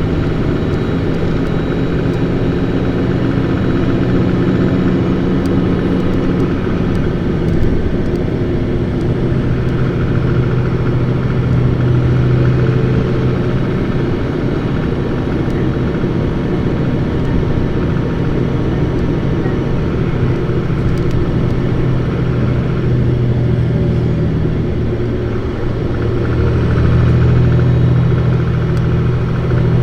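Isuzu PKG-LV234Q2 city bus's diesel engine running hard as the bus drives between stops. The engine note shifts a few times, dips briefly about 25 seconds in, then swells again as it pulls.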